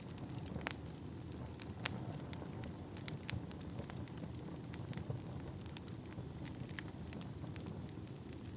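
Wood fire burning in a fireplace: a steady low rumble of flames with frequent irregular sharp crackles and pops. From about halfway a faint, thin, high whistle sounds, falling slightly in pitch.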